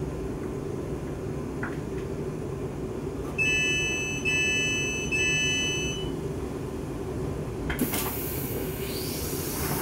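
Inside a Siemens Class 350 Desiro electric multiple unit standing at a platform: the train's equipment hums steadily. About three seconds in come three long high beeps, the door-closing warning. A loud hiss starts near the end.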